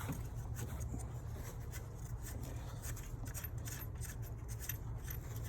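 Faint scraping and light ticks of a hand and socket working the loosened nut off the alternator's battery-cable terminal, over a steady low hum.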